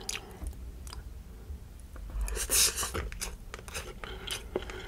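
Close-miked chewing of a mouthful of beef luncheon meat and shrimp fried rice: soft, wet chewing with scattered mouth clicks and smacks, and a louder smack about halfway through.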